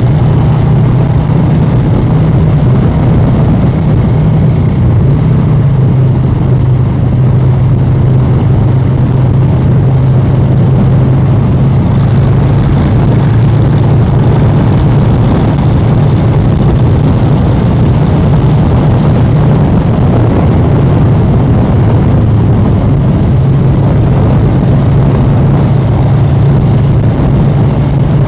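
Harley-Davidson Street Bob 114's Milwaukee-Eight 114 V-twin running loud through a new aftermarket exhaust, held at a steady cruising throttle with no big revs.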